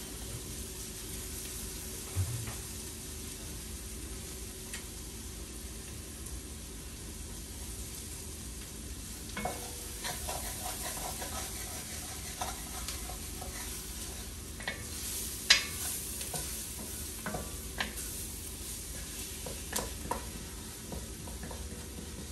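Food sizzling in a pot on the stove with a steady frying hiss, while a spoon stirs it. From about ten seconds in, the spoon scrapes and knocks against the pot now and then, with one sharper knock about two-thirds of the way through.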